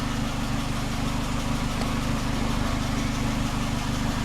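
A 2006 Toyota Corolla's 16-valve four-cylinder engine idling steadily, with the exhaust pipe loose.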